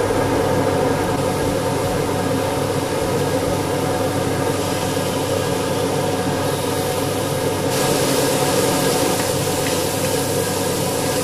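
Slices of pork belly sizzling in hot oil in a wok, the hiss growing louder in two steps as more slices go into the pan, over a steady mechanical hum.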